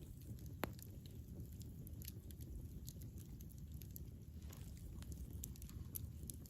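Campfire burning: a low steady rumble of flames with scattered sharp crackles and pops of burning wood, one louder pop about half a second in.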